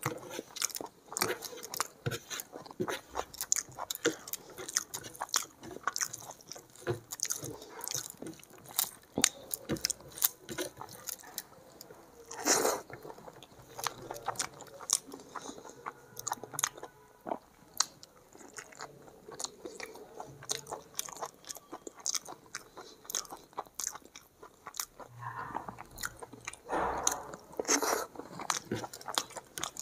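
Close-miked chewing and eating of rice and egg curry taken by hand: a steady run of wet mouth clicks and smacks, with a few louder crunches.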